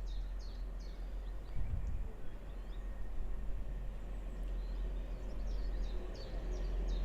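A small bird repeating short, high, downward chirps, a few a second, at the start and again near the end, over a steady low rumble.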